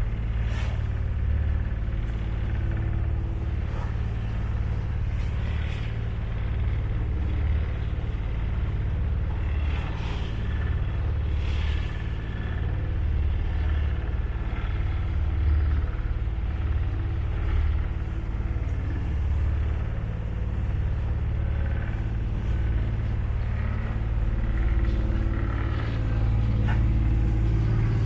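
Tour boat's engine running steadily, a continuous low drone with a constant hum.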